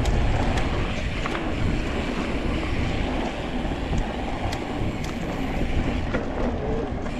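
Mountain bike rolling down a dirt trail: wind rush on the microphone and tyre noise, with scattered clicks and rattles from the bike.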